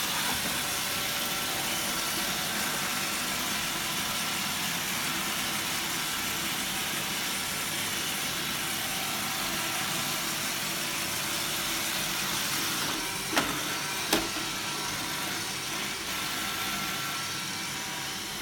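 Roomba 770 robot vacuum running: a steady whir of its vacuum motor and brushes with a faint high whine, broken by two sharp knocks less than a second apart about two-thirds of the way through.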